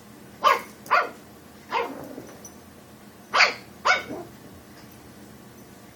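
Pug puppy barking five short, sharp barks: a quick pair, a single bark, then another quick pair about three seconds in. These are play barks, urging the cat to play or run.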